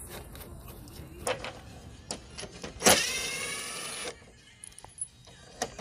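Handheld electric drill-driver spinning once for about a second, about halfway through, as fasteners come off the snowblower's chute, with light clicks and clinks of tools being handled.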